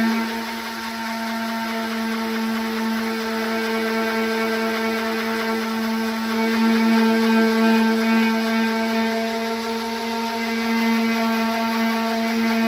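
Electric orbital sander running steadily on a car fender's fiberglass repair, a constant motor hum over the hiss of the sanding pad on the surface.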